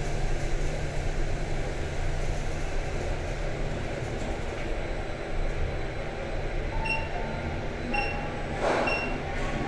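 Otis traction elevator car travelling down its shaft with a steady low rumble, then three short electronic beeps about a second apart near the end.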